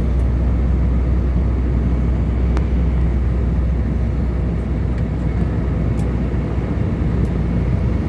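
Jet airliner cabin noise in flight: the engines and airflow make a steady, deep rumble heard from inside the cabin.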